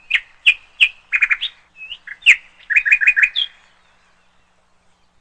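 Bird chirping: single short chirps and quick runs of four or five notes, stopping about three and a half seconds in.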